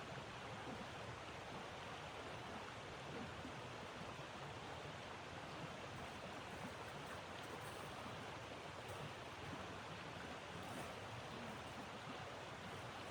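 Steady, even rush of blizzard wind, with a few faint high ticks now and then.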